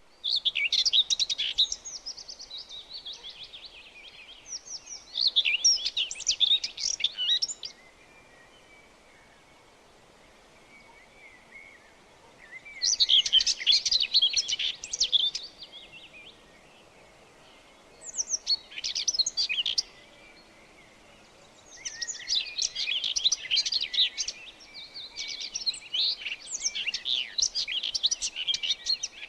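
Birds chirping: dense, rapid, high-pitched twittering songs in bouts of a few seconds, with short near-quiet pauses between bouts.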